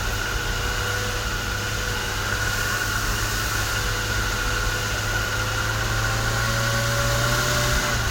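UAZ off-road vehicle's engine running with a steady drone, its pitch and level rising slightly near the end.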